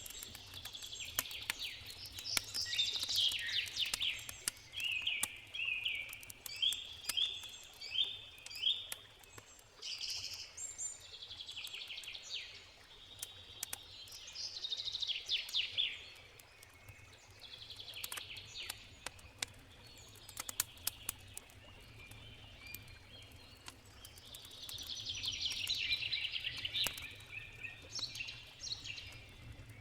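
Songbirds singing in repeated trilled phrases, with campfire crackles as scattered sharp clicks and a steady low background rumble.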